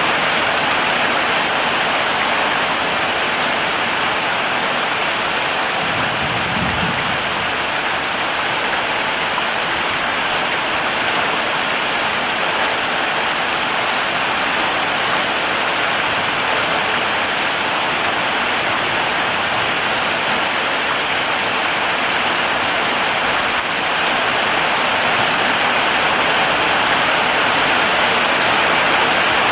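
Heavy rain falling steadily, a dense even hiss that grows slightly louder about three-quarters of the way through.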